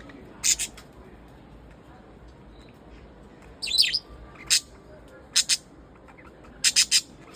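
Budgerigars giving short, sharp, high chirps, singly and in quick pairs and triplets, with a brief burst of warbling chatter about midway.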